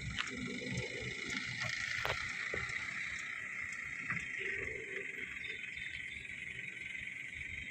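Isuzu dump truck engine running steadily, a rough low rumble under a constant high hiss, with a few light clicks.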